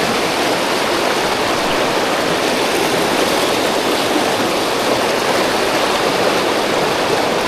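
Fast-flowing river water rushing steadily over a rocky riverbed.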